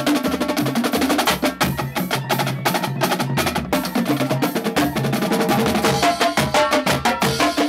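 Marching band drumline playing a fast cadence: rapid snare strokes and rolls over tuned low drums, the strokes falling into a steady, even pulse in the second half.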